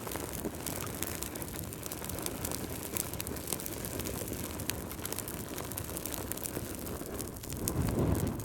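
Wood fire burning in a fireplace: logs crackling with many small sharp pops over a steady low roar of the flames, which swells louder for a moment near the end.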